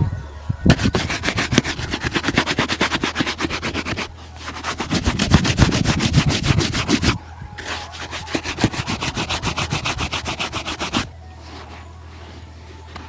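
Leather shoe being buffed in quick back-and-forth strokes, about seven or eight a second, in three runs of about three seconds with short breaks between them, stopping a couple of seconds before the end.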